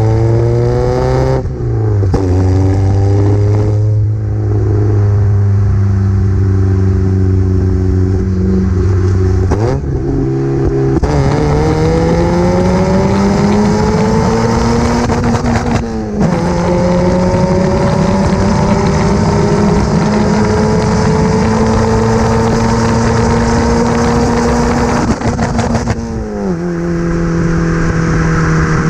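Mazda MX-5 Miata NA's four-cylinder engine through a small BBK cat-back exhaust (rear muffler only, no resonator), with a raspy note under hard driving. The pitch climbs and then holds in long stretches, dropping sharply four times, at about one and a half, ten, sixteen and twenty-six seconds in, as gears change.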